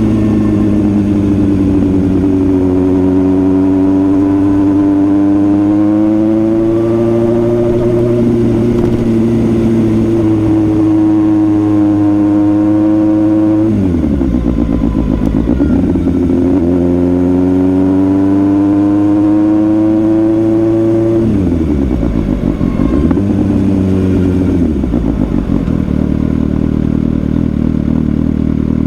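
Suzuki GSX-S750 inline-four motorcycle engine under way, its note climbing and falling with the throttle. About 14 seconds in, and again around 21 to 25 seconds, the pitch drops sharply and then climbs back, as with gear changes. Near the end it settles to a steady lower drone.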